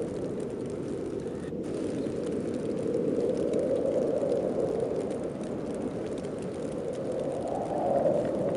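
Howling wind of a heavy snowstorm: a steady rush that swells and eases in gusts, rising to its strongest gust near the end.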